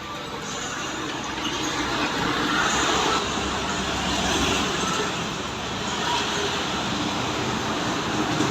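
A vehicle on the road: a steady rumble and hiss of road noise that grows louder over the first three seconds, then holds.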